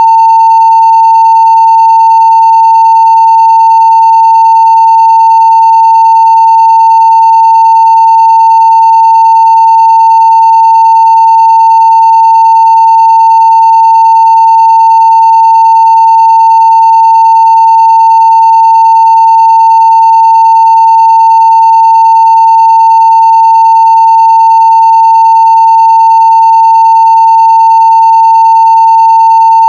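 Steady 900 Hz sine-wave test tone at full scale (0 dB), one unbroken loud pitch.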